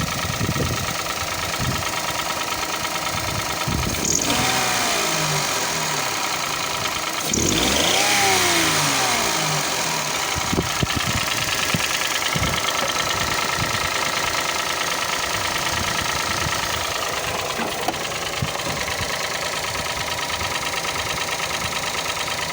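Toyota 1KR-FE three-cylinder engine running with a persistent, unexplained knock, which the owner feels comes from the first cylinder. It is revved briefly twice, about four and about seven seconds in, then settles back to idle.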